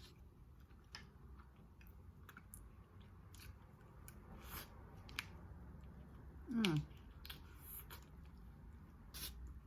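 Close-miked chewing and biting of seafood, with scattered small clicks and cracks. About six and a half seconds in there is a brief vocal sound that falls in pitch.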